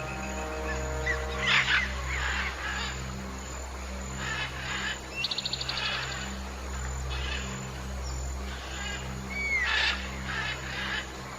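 Wild bird calls and chirps over a low, steady musical drone, with a quick rapid trill about five seconds in and a curving whistled call near the end.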